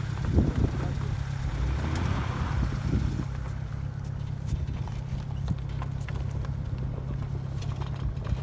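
Off-road vehicle's engine running steadily, with a few scattered knocks and clicks.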